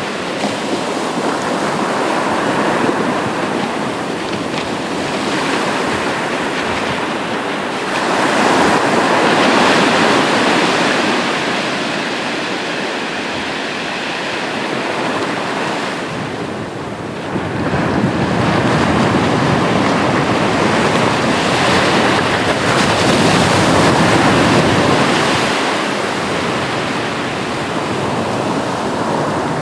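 Sea waves breaking and washing on the shore in a continuous surge, swelling louder about eight seconds in and again after a short lull near the middle.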